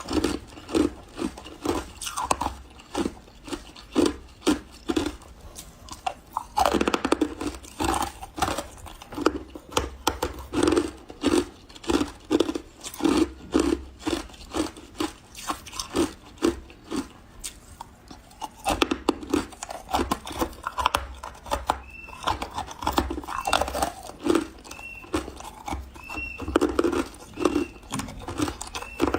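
Close-up chewing of refrozen powdery ice: a steady run of soft crunches, about two to three a second, with a denser burst of crunching about seven seconds in as a fresh bite is taken.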